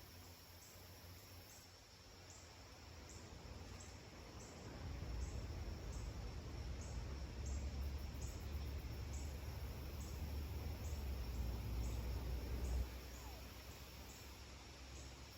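Forest ambience with an insect chirping steadily, about three short high chirps a second. A low rumble comes up about five seconds in, the loudest thing here, and cuts off suddenly about thirteen seconds in.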